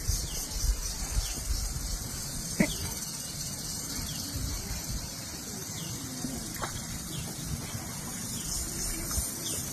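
Outdoor ambience: a steady high hiss with a faint even pulsing and a low rumble, broken by three brief animal calls, the first near the start, then about two and a half seconds in and about six and a half seconds in.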